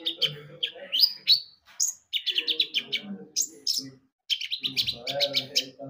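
Konin (kolibri ninja) bird singing in quick, high, twittering chirps in rapid series, breaking off briefly twice.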